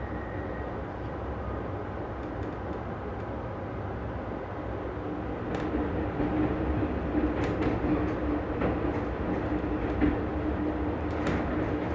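Passenger train running on the rails: a steady rumble with scattered clicks and knocks from the wheels and rail joints. It grows louder about halfway through, where a steady hum comes in.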